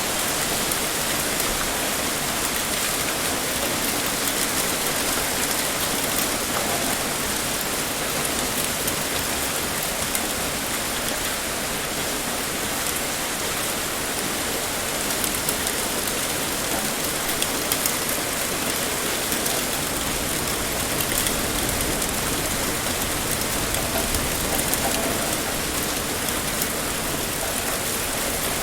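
Heavy rain pouring steadily, a dense even hiss with scattered sharper drop impacts.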